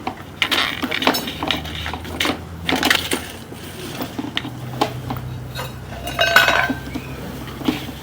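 Irregular metallic clinks and knocks, with a louder scraping clatter about six seconds in, over a steady low hum.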